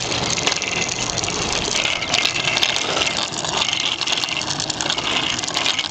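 Steady rushing noise of movement outdoors, wind and rolling wheels on pavement, with faint scattered clicks.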